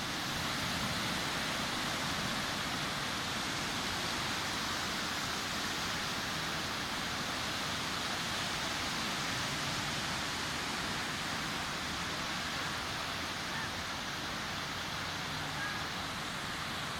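Ocean surf washing steadily on a beach, a constant broad rushing noise.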